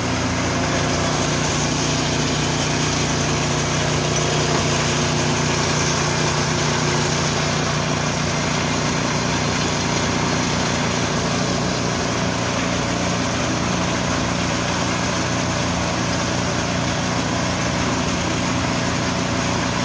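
Small petrol engine running steadily at a constant speed, driving a Richi KD 350 rice and corn mill.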